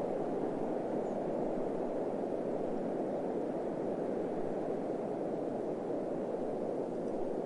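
A steady, even rushing noise, deep and muffled, that holds the same level without gusts or breaks: a desert-sounds relaxation ambience bed.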